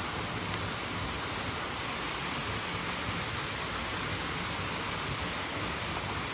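Steady rushing of a mountain stream and waterfall, an even hiss with no breaks.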